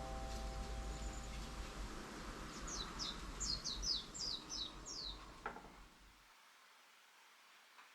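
A bird calling a quick run of about eight short, high, falling notes over a steady low outdoor noise. The noise cuts out about six seconds in.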